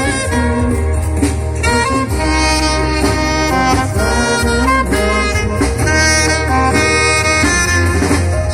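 Band music: a pitched lead melody moving from note to note over a steady bass line and beat.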